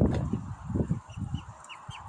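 Swan family calling: a run of short high peeps, several a second, over low irregular rumbling.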